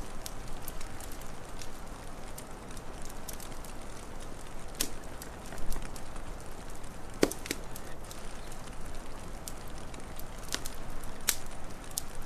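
Wood fire crackling, with scattered sharp pops over a steady hiss. The loudest pop comes a little past the middle, and there is a low thump just before it.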